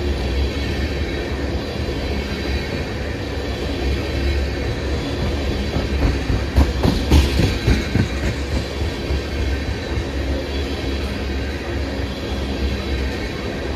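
Freight train rolling past with a steady low rumble, its wheels clacking over rail joints in a cluster about halfway through.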